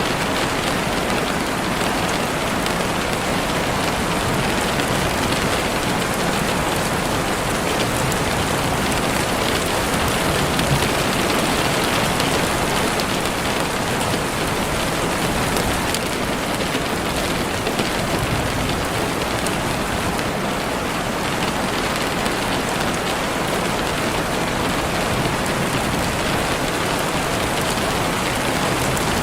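Steady heavy rain falling on leaves and the forest floor, a dense, even hiss with the patter of drops.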